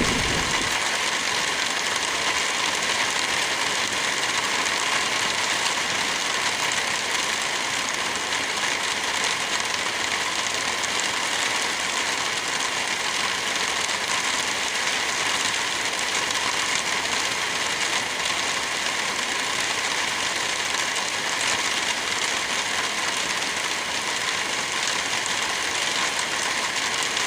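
Steady rain, an even hiss with no thunder in it.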